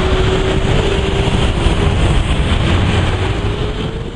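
Steady, loud rumbling vehicle noise with a thin whine that rises slightly in pitch near the end, where the sound begins to fade.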